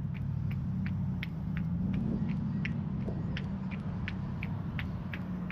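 Running footsteps of a jogger, about three even steps a second, over a steady low rumbling hum.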